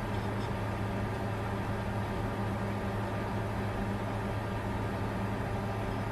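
Bitcoin mining computer running: a steady whir of cooling fans over a constant low hum, unchanging throughout.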